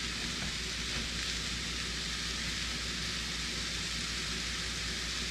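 Sliced mushrooms sizzling steadily in beef fat and butter in a skillet, an even hiss as they cook down.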